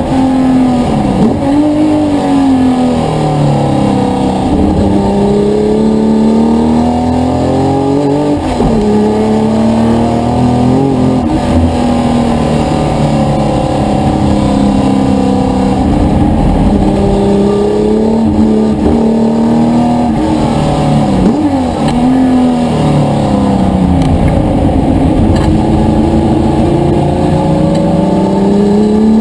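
Historic touring car engine at racing speed, revving up and down through the gears: the pitch climbs steadily, drops at each gear change, and dips sharply several times as it comes off the throttle and blips down for corners.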